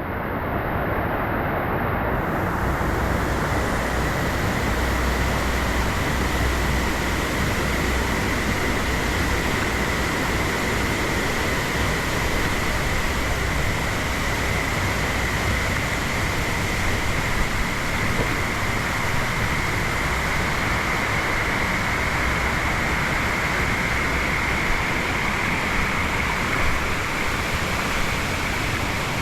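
Steady roar of falling water at a waterfall, fading up over the first second and then constant.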